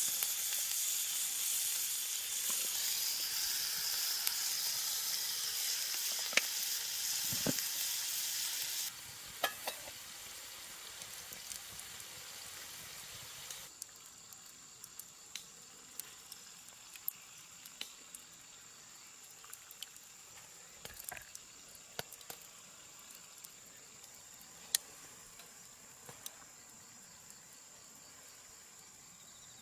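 Food sizzling in a frying pan for about nine seconds, then cutting off abruptly. After that it is much quieter, with scattered light clicks and a steady high thin tone.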